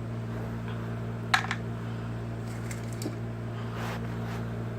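A few light clicks and a brief rustle as small pieces of dry rabbit food are picked through and sorted by hand, the sharpest click about a second and a half in. A steady low hum runs underneath.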